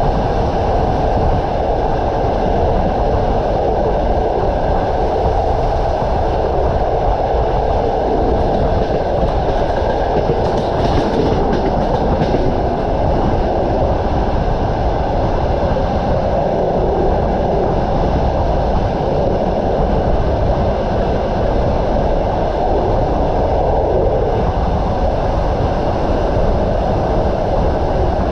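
Passenger train running along the track: a steady, continuous noise of carriage wheels on the rails.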